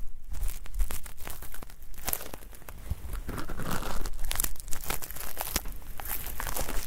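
Ear-cleaning tool scratching and scraping inside a dummy ear's canal close to the microphone, giving a dense, irregular crackling, with a thicker rustling scrape around the middle.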